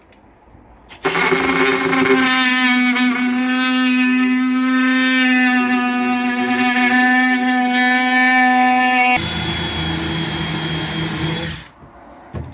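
Oscillating multi-tool cutting into a plywood panel: a loud, steady buzz at one constant pitch, starting about a second in. About nine seconds in the note changes to a rougher, lower run with a thin high whine, and it stops shortly before the end.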